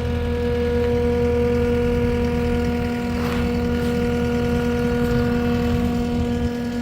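A vehicle engine idling steadily, its pitch holding even throughout.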